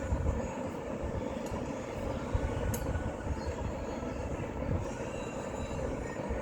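Steady low rumbling background noise with a few faint, sharp metal clicks of a hand wrench turning a bolt.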